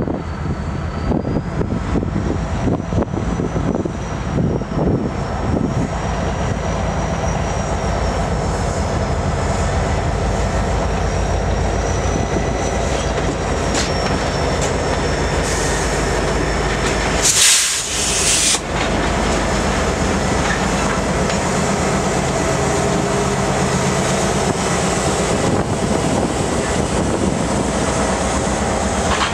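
Two BNSF diesel locomotives running past, followed by a long string of empty intermodal spine cars rolling through the yard, their wheels clacking over rail joints and switches. A thin, wavering high wheel squeal sounds through roughly the first half. A short loud hiss comes a little past halfway.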